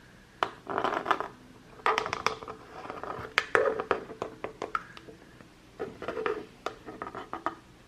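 Hands handling things close to the microphone: irregular sharp clicks and short scratchy rubs.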